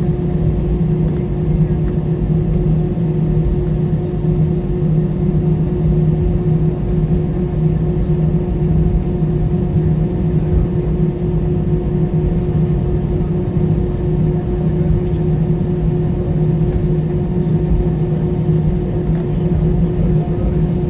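Steady cabin noise inside an Airbus A320 on the ground after landing: an even low hum with a couple of steady droning tones from the engines and air system.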